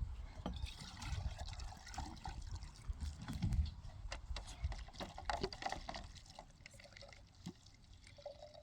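Water splashing and trickling, with many small irregular knocks and clicks, as of something being handled in water.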